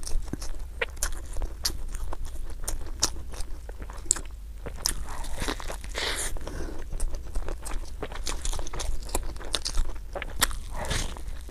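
Close-miked eating sounds: a person biting into and chewing a cream-filled bun, with many sharp wet clicks and crackles of the mouth. Longer, noisier bites come about five to six seconds in and again near the end.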